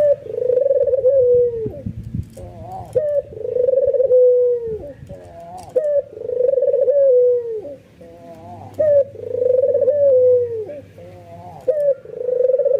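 White albino puter (domestic ringneck dove) cooing in its bowing display call, over and over. Each call is a short lead-in note followed by a long held coo that drops off at its end, about every two and a half seconds.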